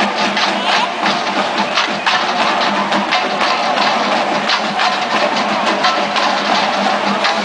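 Marching drum line playing a fast cadence of sharp, closely spaced drum strokes.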